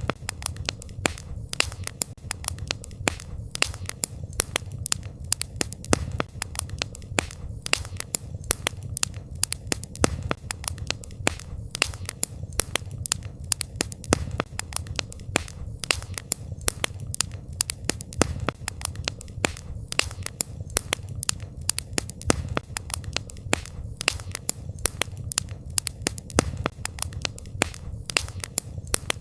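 Campfire burning with a steady low rumble and dense, irregular crackles and pops from the burning wood.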